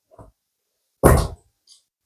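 A single dull thump about a second in, preceded by a faint tap.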